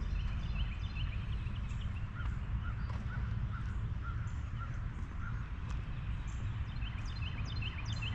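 Birds chirping and calling, with many short chirps and a run of short repeated notes in the middle, over a steady low rumble.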